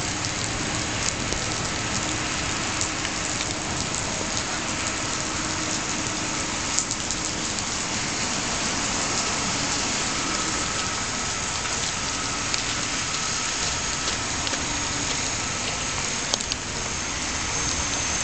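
Heavy monsoon rain falling steadily, with a couple of sharp ticks partway through.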